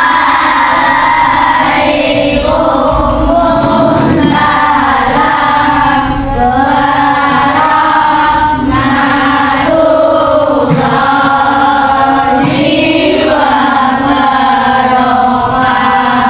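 Music with several voices singing together, like a choir, in long, wavering sung lines.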